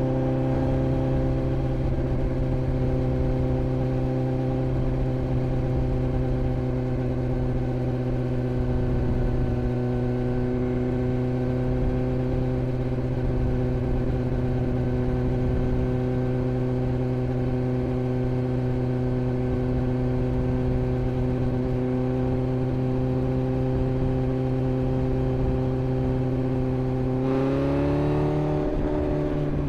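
Inline-four sport bike engine idling steadily, with a short, gentle blip of the throttle near the end.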